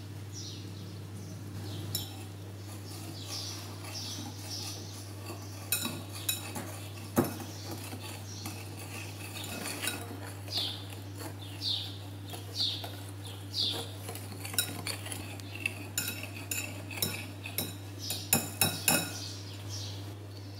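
Wire balloon whisk stirring a dry cocoa-and-flour mix in a ceramic bowl: soft swishes about once a second, with the wires clicking and clinking against the side of the bowl.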